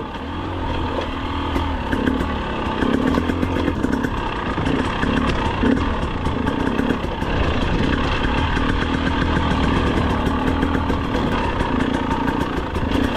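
2025 GasGas EC 300's two-stroke engine running at low revs with small throttle changes, with light clatter throughout.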